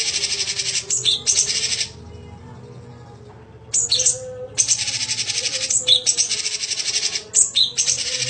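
Songbird singing loud, rapid, high-pitched trilled phrases in long runs. One lasts about two seconds, then after a short pause another runs several seconds with brief breaks. A faint steady hum sits beneath.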